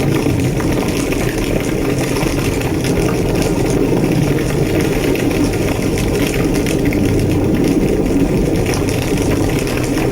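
A large fire burning steadily, the sound the uploader gives as a burning building: a deep, even roar of flames with frequent small crackles and pops throughout.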